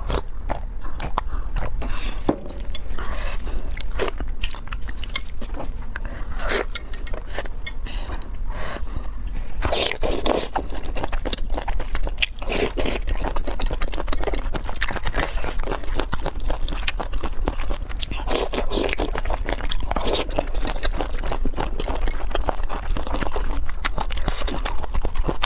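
Close-miked eating: biting and chewing chicken feet in chili sauce, with many crunches and wet clicks of the mouth.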